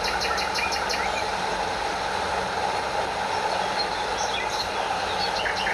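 Stream water running steadily over a small waterfall, a constant rushing wash. A quick series of high chirps sounds near the start and again near the end.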